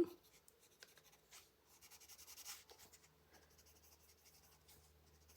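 Faint, irregular scratching of a colored pencil on paper as color is layered in.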